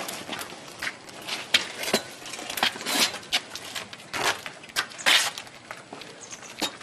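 Irregular scuffing footsteps and sharp clicks and clatters as a motorcycle is pushed and manhandled by hand, with no engine running.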